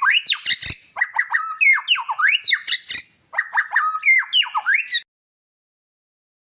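White-rumped shama (murai batu) singing: a fast run of rising and falling whistled notes mixed with harsh, scratchy chatter. The song cuts off abruptly about five seconds in.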